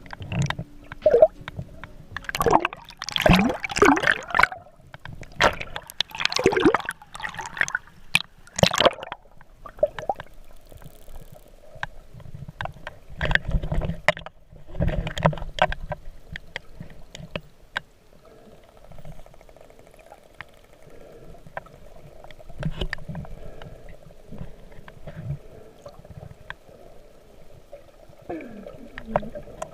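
Sea water splashing and gurgling around the microphone, in uneven bursts for the first nine seconds or so, then a quieter, steadier muffled wash.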